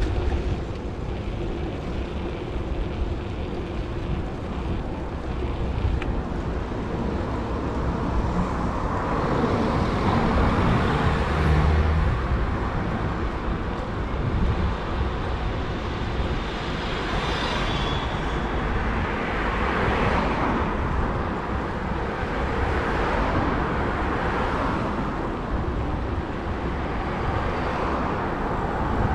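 City street traffic heard from a moving bicycle: a steady rumble of road noise with several vehicles passing by, each rising and fading over a few seconds.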